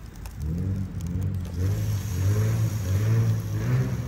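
A car engine accelerating, its low pitch rising and falling several times.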